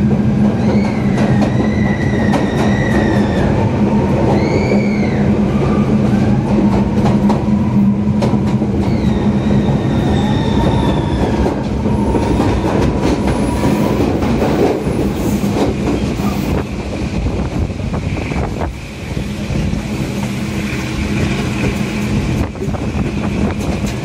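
Passenger train running through a tunnel, heard from an open carriage window: a loud, steady rumble and low hum of the Class M6 diesel locomotive pulling, with wheels clicking over the rails. High wheel squeals rise and fall several times in the first half, then fade out, and the low hum eases after about fifteen seconds.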